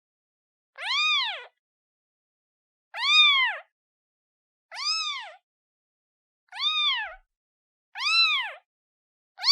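Newborn kitten meowing for its mother: about six separate high meows, each rising then falling in pitch, spaced roughly a second and a half apart with silence between.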